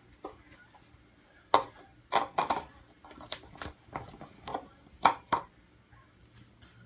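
About ten sharp clicks and taps at irregular intervals, the loudest about a second and a half in and again near five seconds, from slime and its mixing things being handled.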